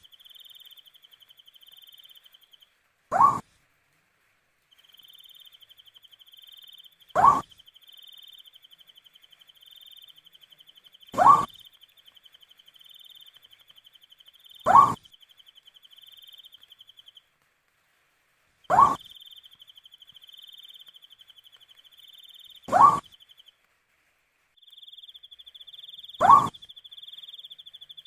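An owl giving a short single rising hoot about every four seconds, seven times, over a steady high-pitched insect trill that stops briefly now and then.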